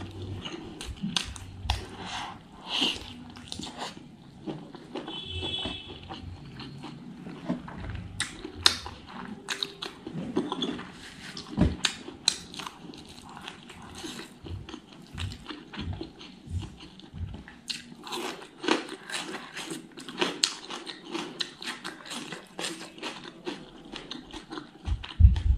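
Close-up mouth sounds of eating fatty smoked pork and rice: wet chewing with many irregular lip smacks and clicks.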